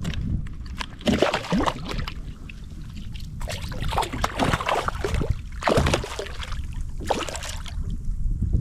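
Water splashing and sloshing against a kayak in several short bursts, over a steady low rumble.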